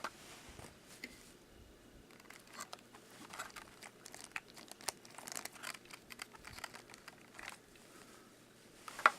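Faint crinkling and clicking of plastic packaging being handled, with a sharper click near the end.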